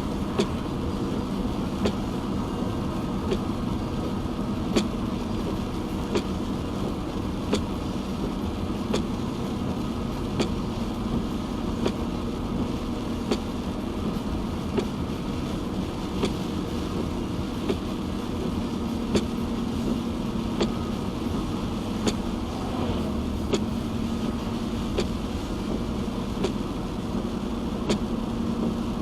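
Car interior while driving on a wet road: a steady rumble of tyres and engine, with a sharp tick of the windshield wipers about every second and a half.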